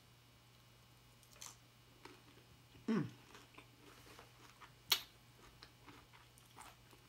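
Quiet chewing of a hard-shell taco, with faint scattered clicks. A short sound falls in pitch about three seconds in, and a single sharp click comes near the five-second mark.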